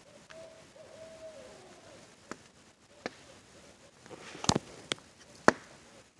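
An owl hooting, a held call that drops in pitch at its end, fading out about a second and a half in. Then a crackling campfire gives several sharp pops, the loudest a cluster about four and a half seconds in and another near the end.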